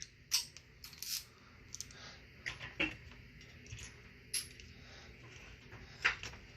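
Scattered light metallic clicks and clinks, about six of them roughly a second apart, from small tools or metal parts being handled.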